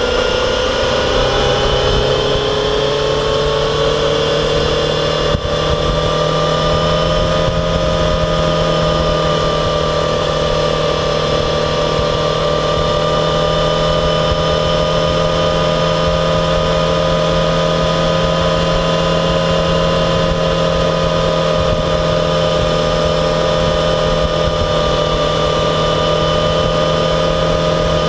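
Yamaha XJ6F's 600 cc inline-four engine running at a steady cruise, its pitch easing down over the first couple of seconds and then holding level, under a constant rush of wind and road noise. There is a single short knock about five seconds in.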